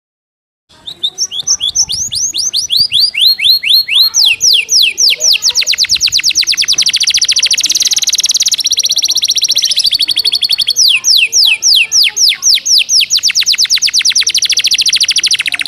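Domestic canary singing a fast, tightly packed song learned from the gelatik batu (cinereous tit). It starts abruptly after a moment of silence, with rapid down-slurred whistled notes running into very fast rolling trills.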